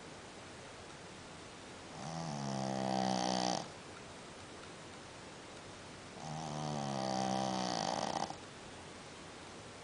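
A sleeping dog snoring: two drawn-out, pitched snores, each nearly two seconds long and about four seconds apart.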